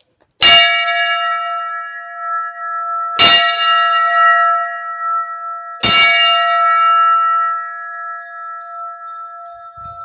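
Metal temple bell struck three times, about two and a half seconds apart, each stroke leaving a long ringing tone that carries over into the next and slowly fades.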